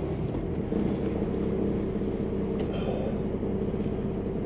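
Heavy tow truck's diesel engine running steadily with an even, unchanging hum, and a faint click about halfway through.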